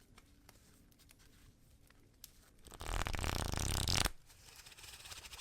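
Tarot cards being shuffled by hand: a few light taps and slides, then, about three seconds in, a fast flutter of cards lasting just over a second, followed by a few soft clicks.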